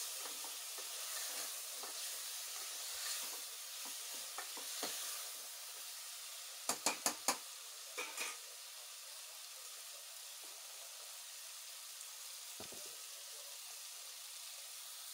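Ridge gourd and potato pieces sizzling in oil with dry spices in an open aluminium pressure cooker, a steel ladle stirring through them for the first few seconds. About seven seconds in come four quick knocks of the ladle against the cooker, then the sizzle runs on steadily.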